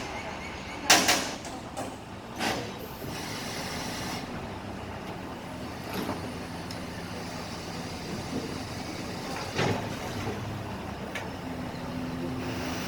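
Garbage truck engine running steadily, with a loud short hissing burst about a second in, a smaller one soon after, and a few brief sharp knocks later on.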